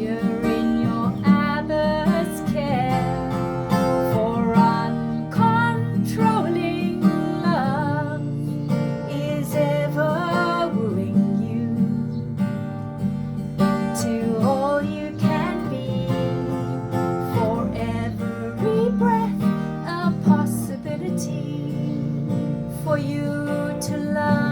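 A song performed live: a woman singing over a strummed acoustic guitar.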